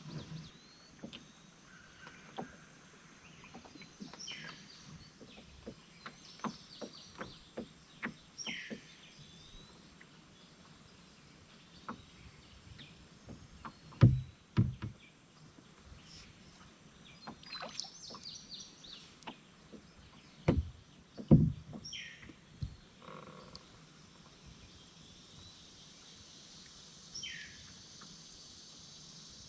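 A canoe being paddled: small clicks and water drips from the paddle, with two pairs of hollow knocks of the paddle against the canoe hull, the loudest sounds, about halfway through and again about two-thirds through. Birds chirp in short repeated calls.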